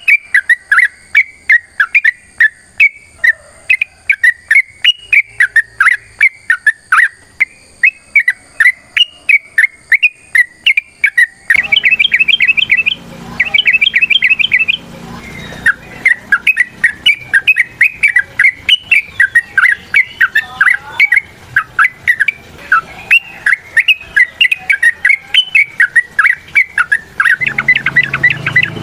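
Yellow-vented bulbul (trucukan) singing a long, unbroken run of quick, short chattering notes. About eleven seconds in, the song carries on over a noisier background with a low hum.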